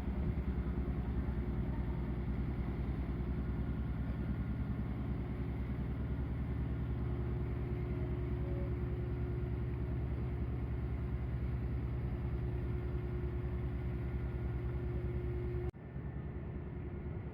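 Ship's engine running steadily with a low pulsing drone and a steady hum above it. Near the end it breaks off abruptly and carries on a little quieter.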